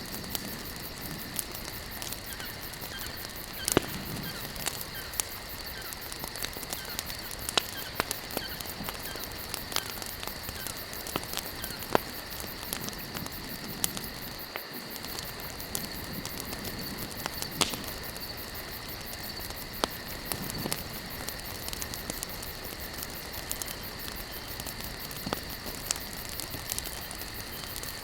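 Wood campfire burning, with sharp crackles and pops at irregular moments over a steady hiss. Behind it runs a steady high insect trill, like crickets.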